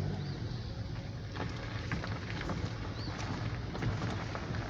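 Steady low engine hum, with two faint short high chirps over it.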